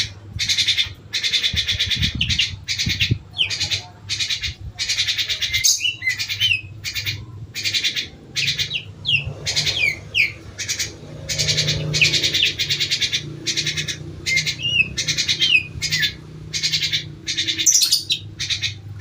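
A group of pet birds calling together in rapid, repeated chattering bursts broken by short gliding notes. The keeper takes the din for hunger, maybe, rather than birds in full song.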